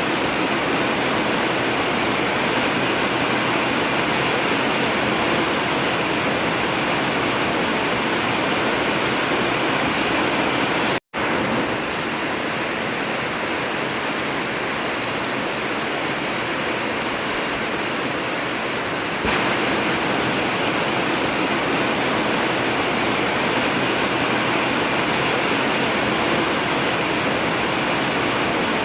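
Heavy rain pouring steadily onto an old tin roof, a dense even hiss. It cuts out for a split second about eleven seconds in, then comes back a little quieter, and grows slightly louder again after about nineteen seconds.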